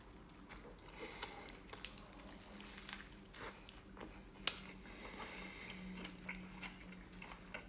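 Person chewing a mouthful of Subway sandwich, heard as faint, scattered wet mouth clicks and smacks.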